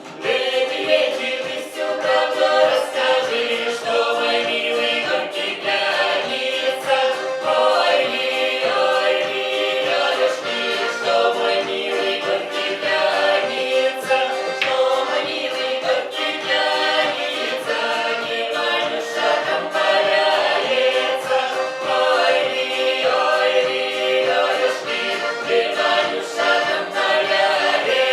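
Folk ensemble singing a folk song in chorus, many voices together.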